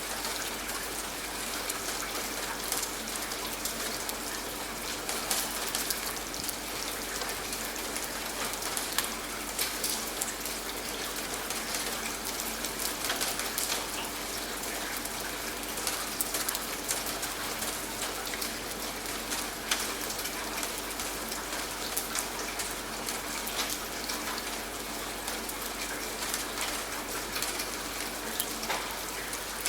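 Steady rain, with many individual drops pattering on a surface.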